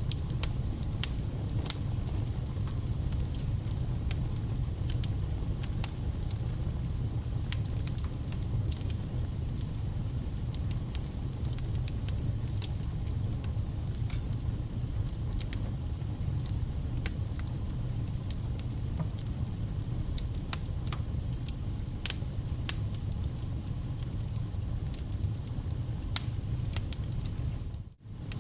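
Wood fire burning: a steady low rush of flames with frequent irregular sharp crackles and pops of burning logs. The sound drops out for a split second near the end.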